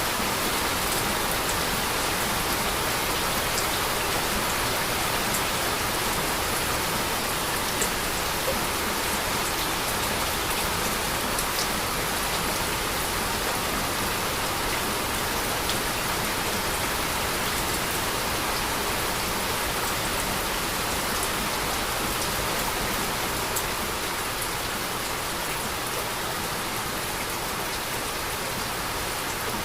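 Heavy, steady rainfall, with a dense hiss and scattered sharp drop ticks.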